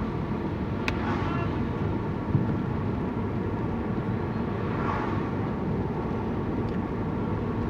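Steady road-vehicle rumble, with two swells of wet-road noise about a second and about five seconds in, and a sharp click just before the first swell.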